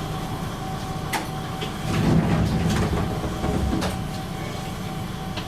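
KiHa 20-series diesel railcar running, a steady low engine and running noise that swells louder about two seconds in, with a few sharp clicks.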